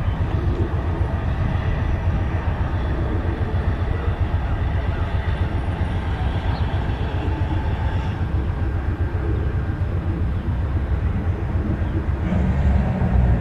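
Train running by with a steady low rumble that swells slightly near the end.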